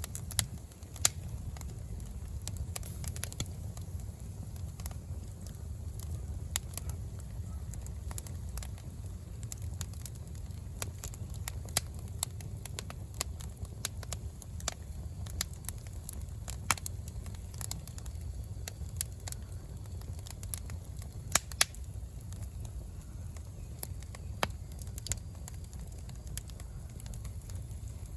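Wood bonfire crackling, with sharp pops at irregular intervals over a low steady rumble.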